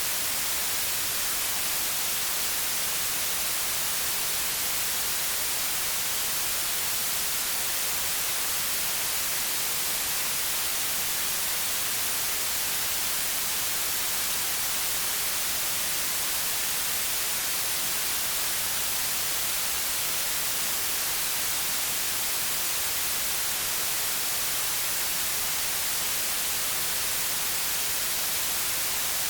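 Steady white noise: an even, featureless hiss, brighter in the treble, at a constant level.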